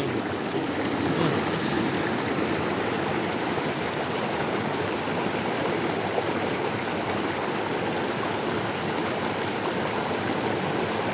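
Steady rush of a flowing river stream.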